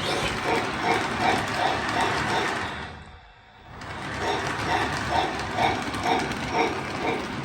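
Lionel O gauge model train running on the layout track, with an even clicking rhythm of about two to three beats a second. The sound fades down briefly about three seconds in, then picks up again.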